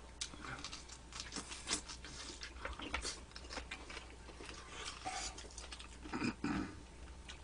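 Close-up chewing of two people eating bulgogi with glass noodles and kimchi pancake: a string of short, irregular mouth clicks and smacks, busiest about six seconds in.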